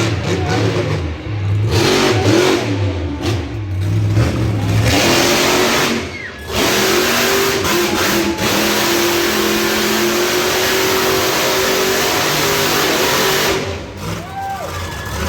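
Monster truck engine revving hard: a few throttle blips, then held wide open for several seconds with a brief lift about six seconds in, easing off near the end.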